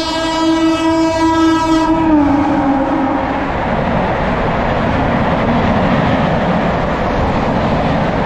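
Train horn sounding one long steady blast, dropping slightly in pitch about two seconds in and fading out, as an express train speeds through the station; then the loud, steady rush and rattle of its coaches passing at speed.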